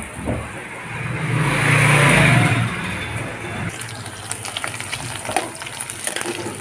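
Taro (arvi) pieces frying in hot oil in a pan, with a steady sizzle and rapid small crackles through the second half. Before that, a broad rushing noise with a low hum swells up and fades over about three seconds.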